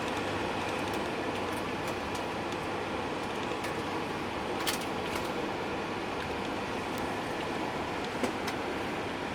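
Steady engine and road noise inside a moving bus, with a couple of short rattling clicks, once about halfway through and again near the end.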